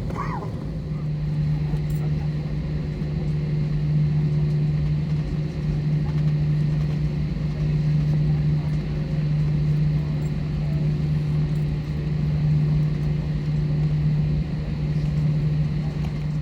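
Airbus A321 cabin noise on the ground after landing: a steady hum from the idling jet engines and cabin air, one low droning tone over a rumble, unchanging throughout.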